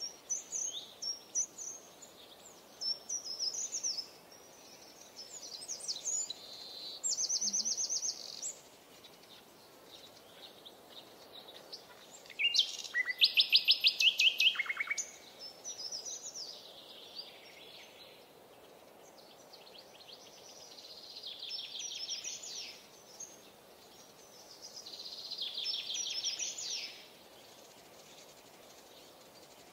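Songbirds singing in short separate phrases of high chirps and rapid trills every few seconds, the loudest a dense trill about halfway through, over a faint steady hiss.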